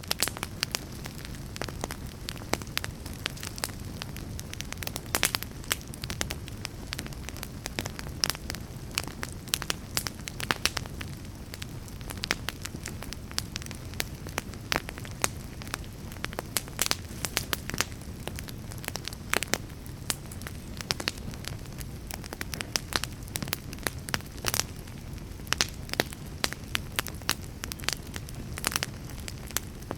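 Fire crackling: frequent irregular sharp pops and snaps over a steady low rumble.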